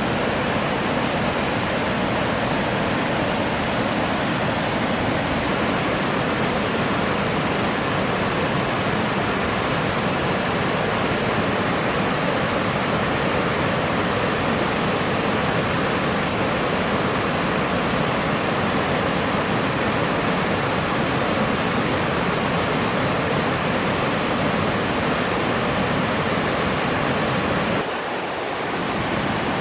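Waterfall: a steady rush of falling water, dipping briefly in level near the end.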